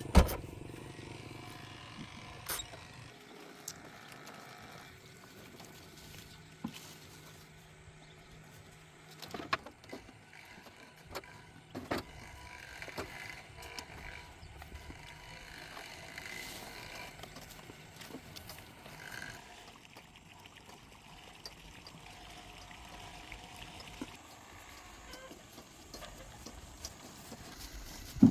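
Scattered clicks and knocks, as of tools and metal parts being handled during a repair, a few seconds apart over a faint steady background.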